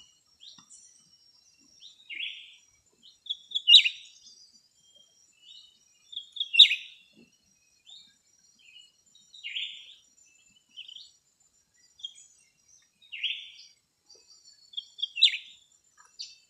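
Songbird calls: short, sharp chirping phrases repeated every couple of seconds, with a faint, thin, high-pitched steady trill behind them.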